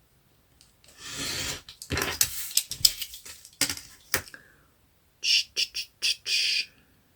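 Scissors snipping off the corners of a piece of card, among paper rustling and small clicks of things handled on a table, with a quick run of short snips about five seconds in.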